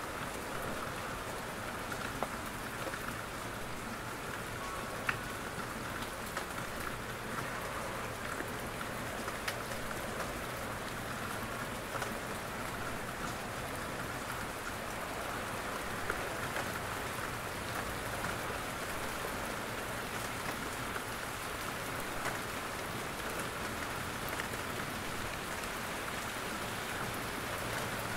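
Steady rain in a forest, with heavier drops falling from the trees and pattering as scattered separate ticks over the even hiss.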